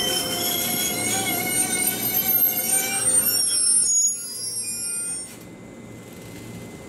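JR 211 series electric train squealing in several high tones as it brakes into the station. The squeal cuts off about four seconds in as the train stops, and the noise falls away a second later to a low steady hum.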